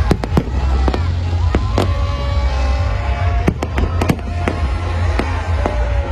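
Fireworks display: a rapid, irregular series of sharp bangs from shells bursting, over a continuous deep rumble, with music playing underneath.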